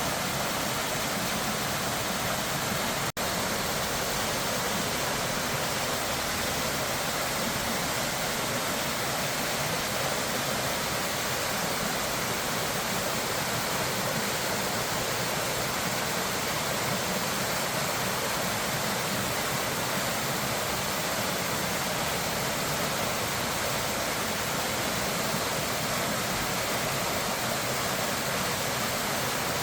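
Steady rushing water, as of a waterfall or flood torrent, with a brief dropout about three seconds in.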